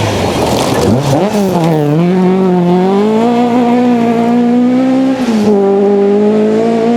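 Historic Ford Escort Mark II rally car's engine at full throttle. The pitch climbs steeply in the first two seconds, then holds high and steady, with a brief dip about five seconds in.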